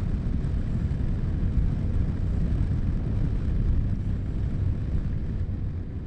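Yamaha Ténéré 700's parallel-twin engine running steadily while the bike is ridden, under heavy low wind and road rumble.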